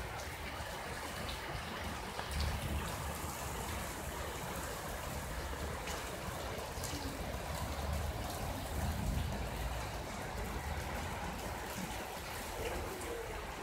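Tropical rain falling steadily: an even, constant hiss of rain with a few faint drop ticks.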